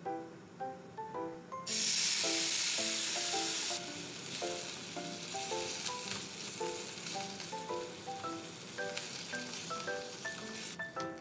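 Lotus root slices frying in oil in a pan, sizzling. The sizzle starts suddenly loud about two seconds in, eases after a couple of seconds, and goes on steadily while tongs turn the slices.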